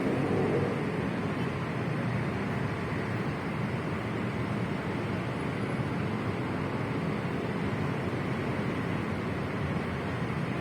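Steady rumbling running noise of a light rail (LRT) train, even throughout, slightly louder in the first half second.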